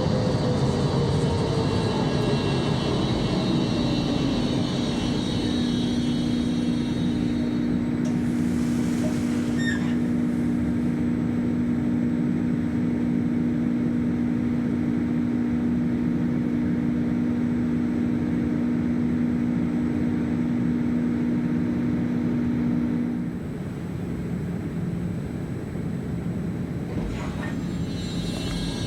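NF4 tram's electric drive whining down in pitch as it slows over the first few seconds, then a steady two-tone electrical hum over a constant rumble; the hum cuts off suddenly about three-quarters of the way through and the sound drops a little.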